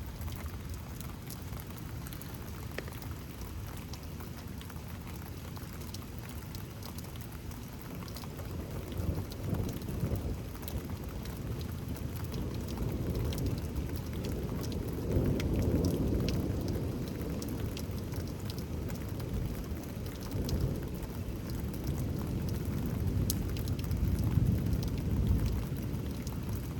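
Steady rain falling, with scattered drops ticking close by, while low thunder rumbles on and off; the rumble swells most strongly about halfway through and again near the end.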